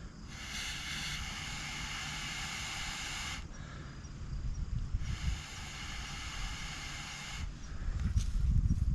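Two long, steady hisses of blown air, each about two to three seconds long, starting and stopping sharply, aimed at tinder that has not yet caught. This is an attempt to coax a campfire into flame.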